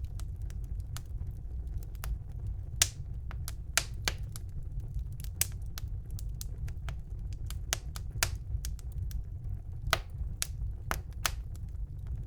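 Wood fire burning in a fireplace, crackling with irregular sharp pops and snaps, a few louder than the rest, over a steady low rumble of the flames.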